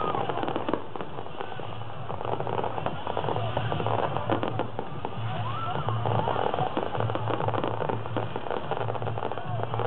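Fireworks display with aerial shells launching and bursting overhead, and continuous rapid crackling and popping throughout.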